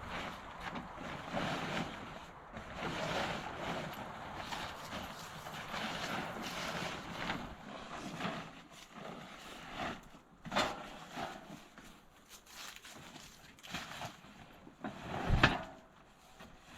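Wind buffeting the microphone as a fluctuating rush, with scattered knocks and a single heavy thump near the end.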